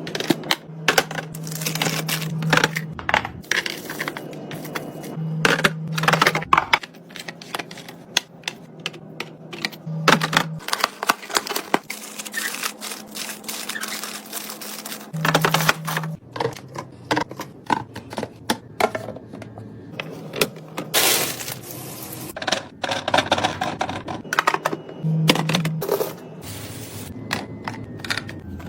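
Clatter and clicks of containers and food packages being handled and set into a refrigerator: a quick, uneven run of small taps and knocks.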